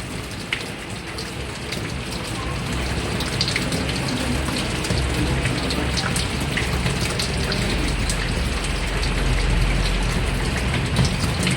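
Water splashing and running in a twin-tub washing machine's tub, with a low steady hum underneath.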